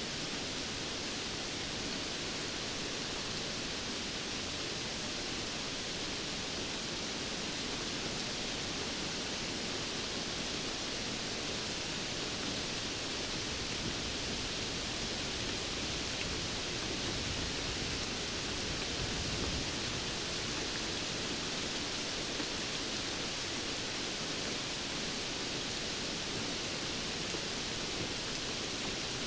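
Steady rainfall, an even hiss with no distinct drops or thunder, holding constant throughout.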